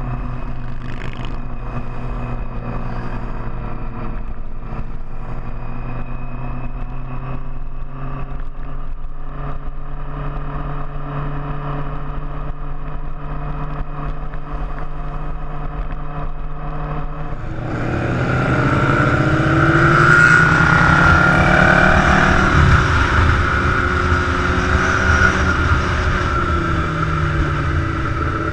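Big motorcycle engines running at a steady pace. About two-thirds of the way through it gets louder and fuller, with a rush of noise and several engine pitches rising and falling, as more bikes rev close by.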